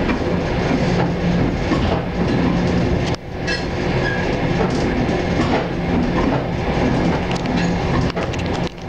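Moving passenger train heard from inside the carriage: rumble and clickety-clack of the wheels on the rails, with a freight train of flatcars passing close on the next track. The noise drops off sharply for a moment twice, about three seconds in and near the end.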